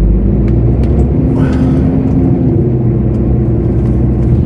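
Lorry's diesel engine running, heard from inside the cab as a steady low drone.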